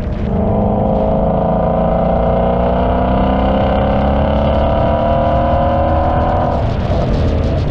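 Car engine pulling hard under acceleration, its pitch climbing steadily for several seconds, then a gear change about seven seconds in, after which it picks up again at lower revs.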